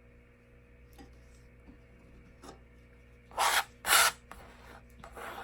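A paintbrush scrubbing paint onto a surface: two short, loud brush strokes about half a second apart a little after three seconds in, then a fainter one near the end.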